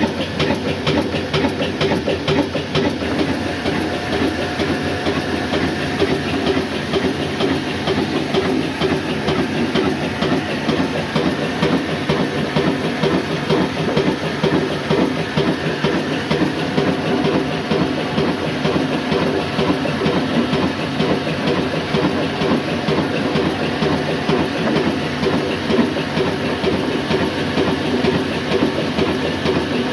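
Old black diesel oil engine running steadily while driving a flour mill, with a fast, even clatter.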